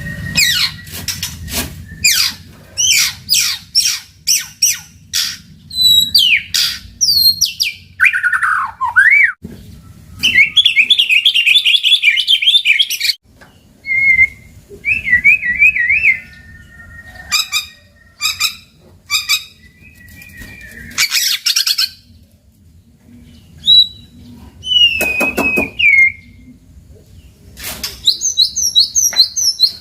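White-rumped shama (murai batu) singing a varied song of rapid whistled phrases, fast trills and sharp upsweeping notes, delivered in bursts with short pauses between them.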